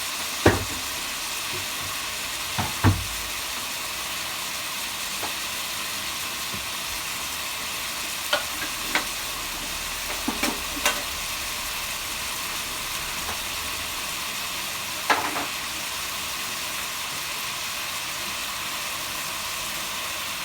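Chicken pieces frying in hot oil in a cooking pot, a steady sizzle with a scattering of short sharp clicks and knocks, the loudest about half a second in. The chicken is browning and releasing its fat.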